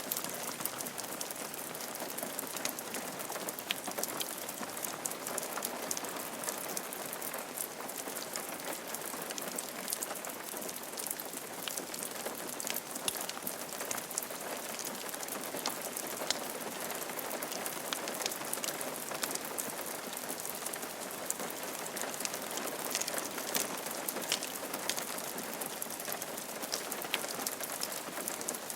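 Steady rain falling on a roof, a constant hiss dotted with the sharp ticks of individual drops striking.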